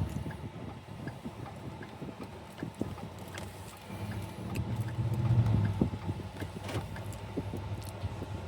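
Low rumble of a vehicle on the move, swelling a little about halfway through, with a few faint clicks.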